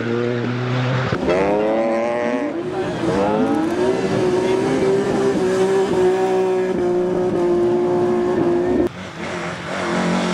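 Rally car engine accelerating hard, revving up through several quick upshifts, then held at high revs for several seconds before the driver lifts off suddenly about nine seconds in.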